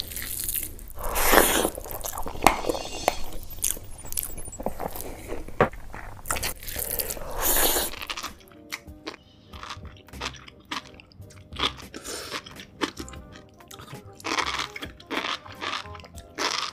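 Crunching and chewing from eating king crab, over background music. The crunching is loud and dense in the first half, then thins to scattered sharp cracks and clicks as the music comes forward.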